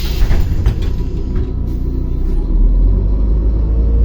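MAZ-105 city bus heard from inside the cabin: a hiss of compressed air fades out in the first second, with a few clunks. Then the engine's low rumble grows louder after about two and a half seconds.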